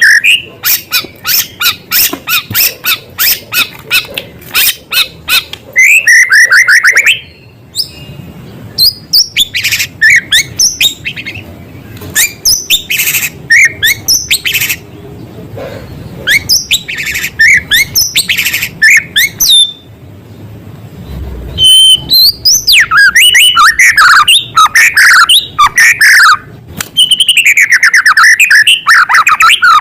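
White-rumped shama (murai batu) singing loudly: rapid runs of sharp chips and trills with downward-sweeping whistles, its song full of mimicked small-bird calls, broken by two short pauses.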